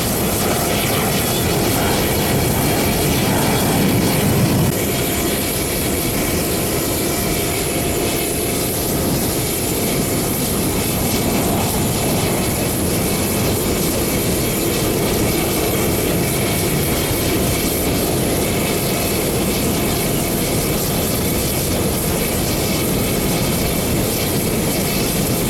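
Jet fighters of an aerobatic display team flying overhead: a steady jet engine noise that swells slightly about four seconds in.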